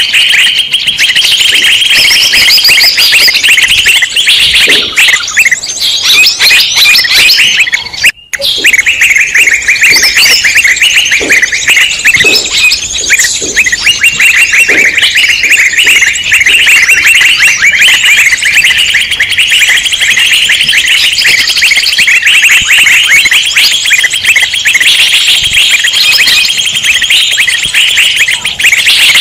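Dense, loud chorus of many small songbirds chirping and twittering all at once: a bird-lure (pikat) recording of an agitated mixed flock. There is a momentary dropout about eight seconds in.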